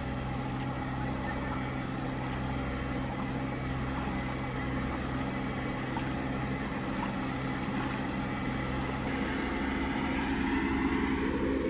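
Heavy diesel engine running steadily, its note shifting about nine seconds in and rising a little toward the end.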